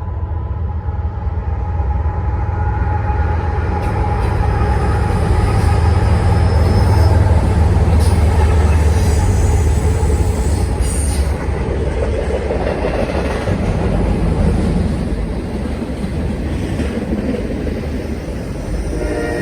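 Norfolk Southern freight train with four diesel locomotives passing. The deep engine rumble builds to its loudest about six to eight seconds in, then eases into wheels running on the rails with some high wheel squeal.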